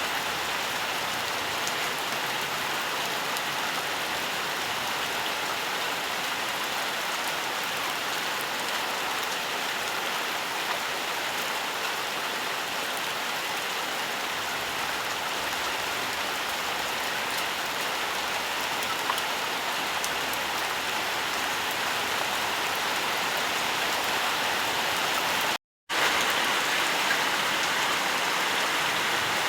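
Steady rainfall, an even hiss of many drops. Near the end it cuts out completely for a split second, then resumes slightly louder.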